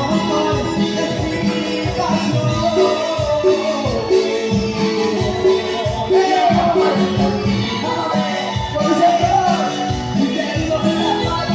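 Live Latin dance band playing over a loud PA: a steady bass beat with hand percussion and a melodic lead line.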